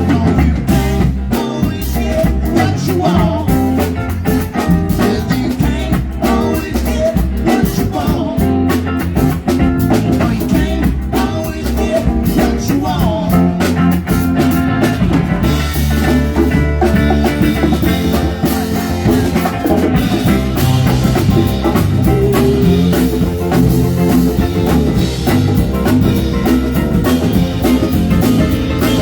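A live rock band playing, with electric guitar and a drum kit over a heavy bass line; the cymbals come in brighter about halfway through.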